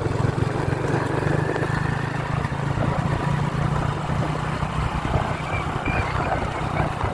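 Motorbike engine running steadily while riding, a constant low hum with road and wind noise.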